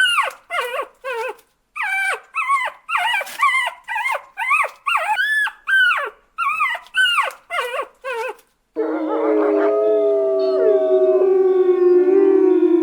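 A dog yelping and howling in a quick series of short cries that rise and fall in pitch. About nine seconds in it switches abruptly to long, drawn-out howls, with several voices overlapping.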